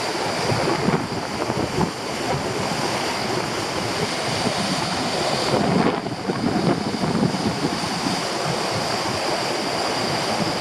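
Storm surf breaking on a rocky shore in very strong wind, with gusts buffeting the microphone and the noise swelling and easing.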